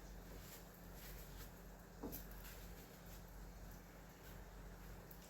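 Near silence: faint steady low hum of room tone, with one soft click about two seconds in.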